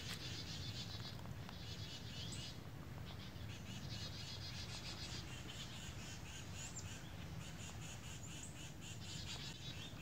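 Woodland birds calling: short bursts of rapid high trills that come and go every second or two, with a few thin high chirps, over a steady low rumble.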